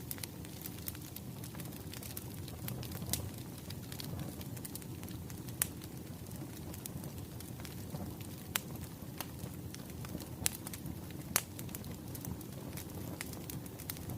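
Firewood burning: a steady low rumble with irregular crackles and a few sharper pops.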